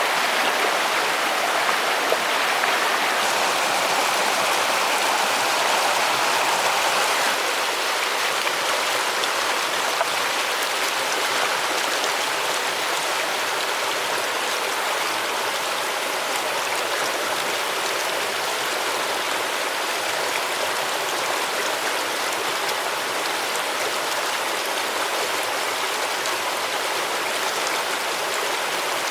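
A mountain stream running over rocks, a steady rushing of water that eases slightly about seven seconds in.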